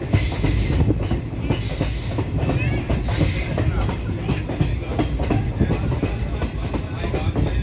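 Passenger train running, heard from inside a coach: a steady low rumble with constant rattling of the wheels on the rails.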